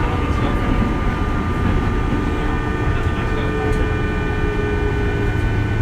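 Interior running sound of a 201 series electric commuter train under way: steady rumble of wheels on rail with several steady electrical tones from the thyristor-chopper-controlled traction equipment, one of them sliding slowly down in pitch.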